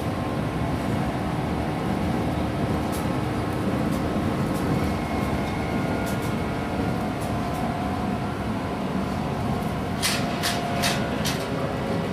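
Running noise heard inside a carriage of a JNR 169 series electric train: a steady rumble of the wheels on the rails with a low hum. About ten seconds in comes a quick run of sharp clicks.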